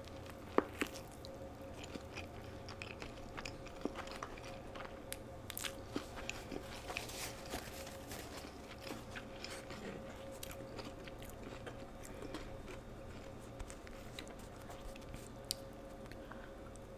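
Close-miked biting and chewing of crunchy McDonald's food, with many small crunches and wet mouth sounds, two sharp clicks about half a second in. A faint steady hum runs underneath.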